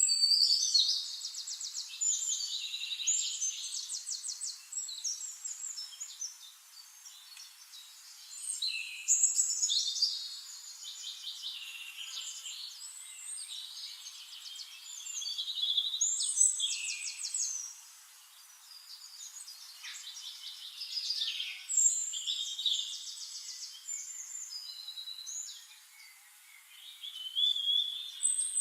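A songbird singing long, varied, high-pitched phrases full of fast trills, one burst of song every six to seven seconds with quieter stretches between.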